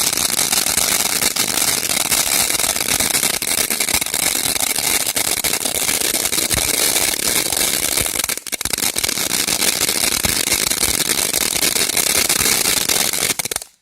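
A burning firework giving a continuous loud hiss thick with crackling, with one brief dip about two-thirds of the way through; it cuts off suddenly near the end.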